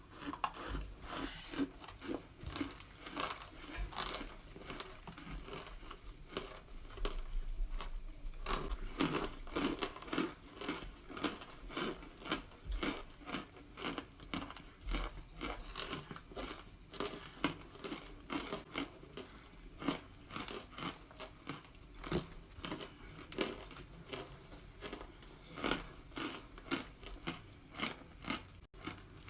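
Cornstarch chunks being bitten and chewed close to the microphone: a continuous run of crisp crunches, several a second.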